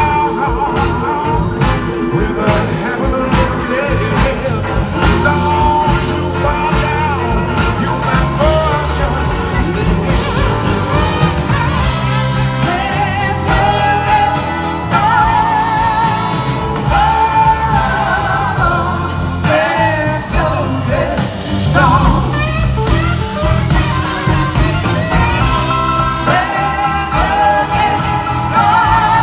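Live blues-rock band playing, with singing over the band.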